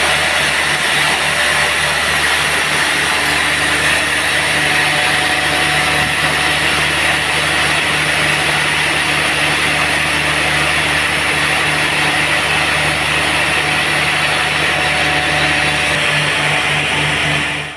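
Sawmill running steadily, a constant machine drone with a hum under it; it cuts off suddenly at the very end.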